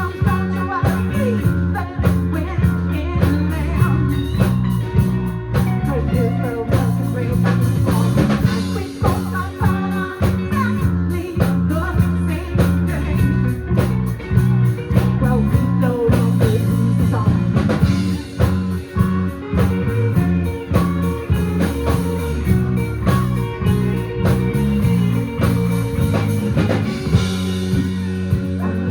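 Live rock band playing: electric guitars, bass and drum kit in a blues-rock groove with a steady beat, with some singing.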